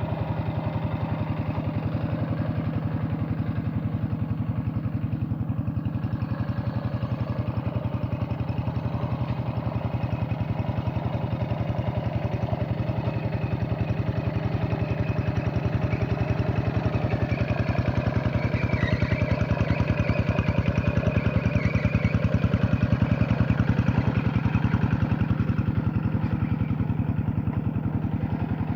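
Paddy-field tractor engine running steadily with a rapid, even beat, growing a little louder past the middle and easing off near the end.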